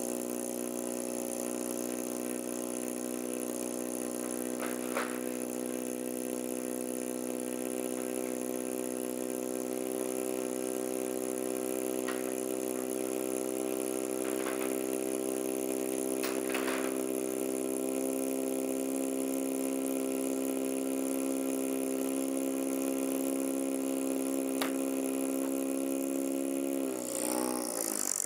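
Old Wolseley car engine idling steadily, with a few faint clicks and knocks. Near the end the engine note sags and then rises as the car pulls away.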